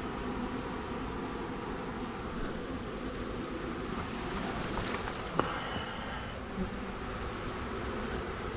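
Honey bee swarm buzzing steadily as the bees are scooped and dumped into a hive box, with a single sharp tap about five seconds in.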